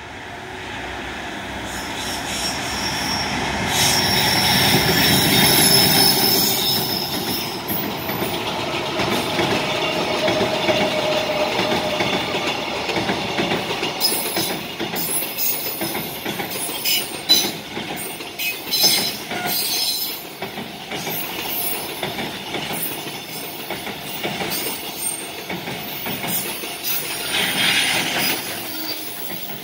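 A freight train passing close by. The locomotive's approach builds to its loudest about six seconds in, then a long string of container wagons rumbles past with the repeated clickety-clack of wheels over the rail joints.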